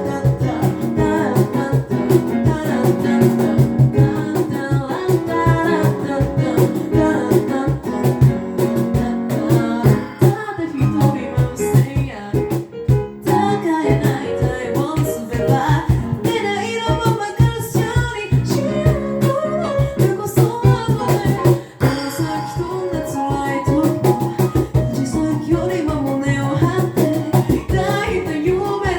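An a cappella group singing in harmony, with a sung bass line and a steady vocal-percussion beat, and voices standing in for the instruments.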